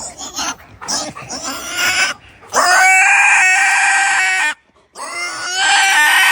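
An animal squealing: a run of short, broken sounds, then two long, high, steady-pitched squeals of about two seconds each.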